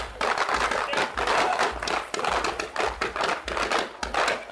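Fireworks crackling: a dense, irregular stream of small rapid pops from fans of crackling comets, over a low, pulsing rumble.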